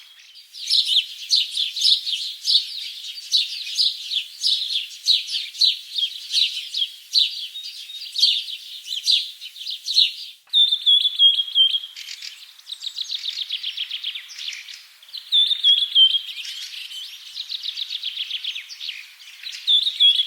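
A songbird singing in quick chirps and fast trills, with a short phrase that recurs several times. The song stops abruptly about ten seconds in and starts again at once.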